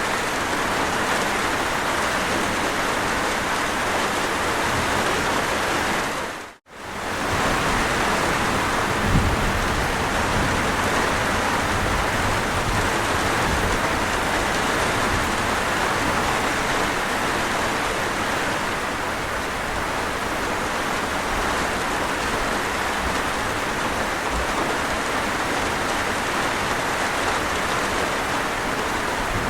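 Steady heavy rain. The sound dips out briefly and fades back about six and a half seconds in, and there is a short low thump about nine seconds in.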